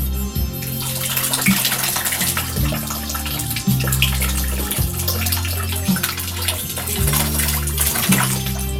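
Water splashing and pouring from a small water fountain. It starts about half a second in and stops near the end, over background music with a repeating bass line.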